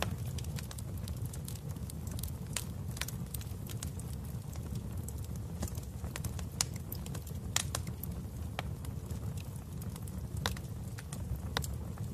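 Wood fire in a fireplace crackling: irregular sharp pops and snaps over a steady low rumble of the flames, with a few louder pops in the second half.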